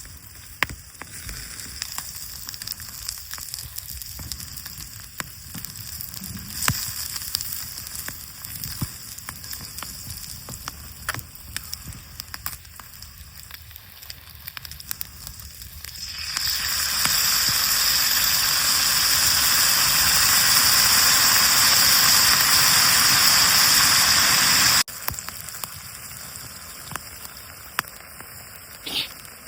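Wood campfire crackling with scattered sharp pops. About 16 s in, a loud sizzle of food frying over the fire swells in, runs for about eight seconds and cuts off suddenly.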